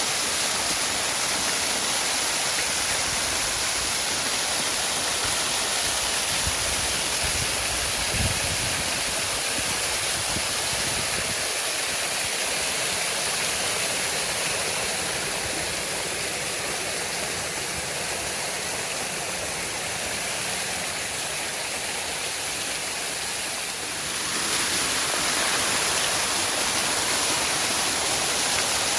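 Waterfall: falling water rushing steadily as an even roar of noise, with a few low rumbles about a third of the way in. The sound eases slightly in the middle, then jumps back up abruptly near the end.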